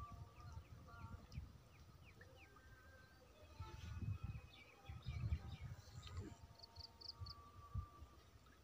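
Faint birdsong: quick high chirps and short falling calls, with some thin held notes, over an irregular low rumble.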